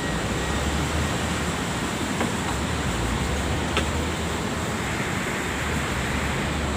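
Steady machine noise with a low hum, with two faint clicks about two and four seconds in.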